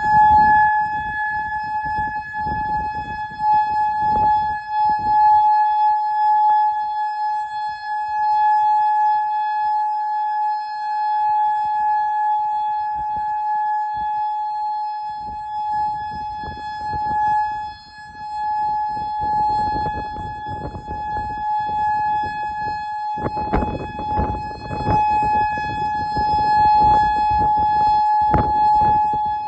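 Federal Signal Modulator outdoor warning siren sounding one loud, steady tone with no rise or fall in pitch, activated as a tornado warning.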